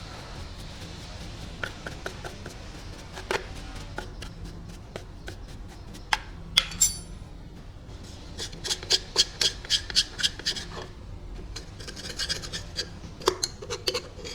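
Hand tool working metal compressor parts: a few sharp clicks, then runs of rhythmic scraping strokes at about five a second, one from about eight to eleven seconds in and a shorter one near the end.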